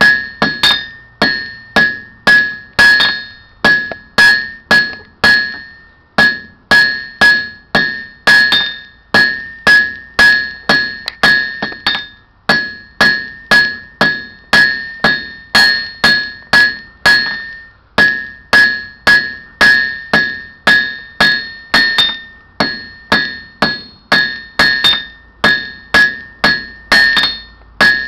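Hand hammer striking hot iron on an anvil, about two blows a second with a few short pauses. Each blow leaves the anvil ringing in a clear high tone. This is a blacksmith drawing a bar's end out to a taper for a pigtail hook.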